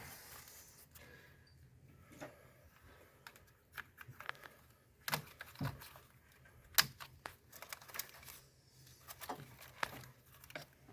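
Hands working on a car's engine wiring harness: scattered sharp plastic clicks and short rustles and crinkles as connectors and wires are handled, over a faint steady hum.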